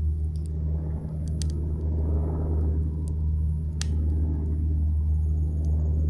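Campfire crackling, with a few sharp pops of burning wood over a steady low rumble.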